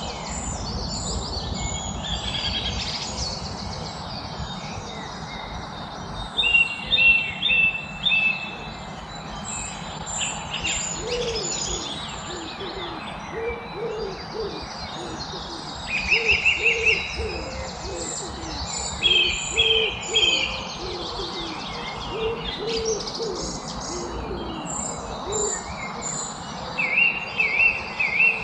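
Several wild birds singing, with short bright song phrases and chirps repeated throughout, and a lower call repeated about once or twice a second through the middle, over a steady outdoor background hiss.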